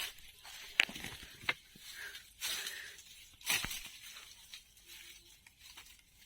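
Footsteps crunching and rustling through dry leaves and undergrowth, with a few sharp snaps of twigs, the loudest about a second in and again past three and a half seconds.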